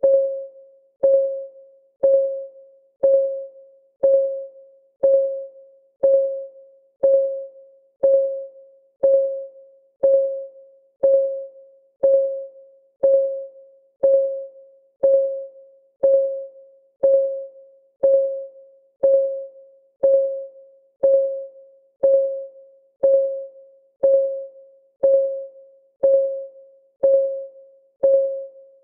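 Countdown timer's clock-ticking sound: a short, pitched tick exactly once a second, each dying away quickly.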